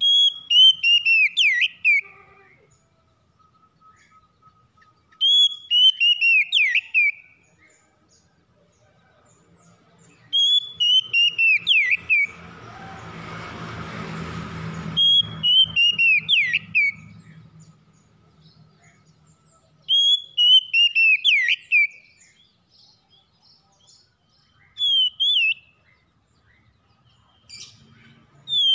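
A songbird sings the same short phrase of quick, falling whistled notes over and over, about once every five seconds. In the middle a rushing noise with a low hum swells up and fades under the song.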